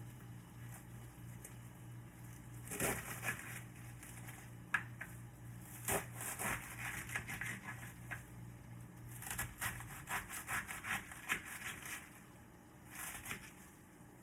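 Kitchen handling sounds from cooking prep: bursts of scraping, knocking and rustling, irregular and in clusters, over a steady low hum that stops about ten seconds in.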